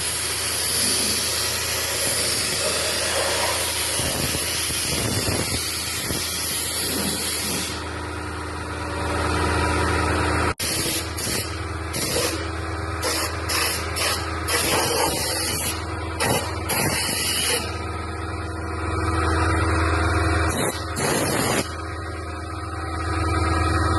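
Pneumatic spray gun hissing as it sprays BODY 930 anticorrosion coating. It runs steadily for the first several seconds, then in short bursts that start and stop as the trigger is pulled and released, over a steady low hum.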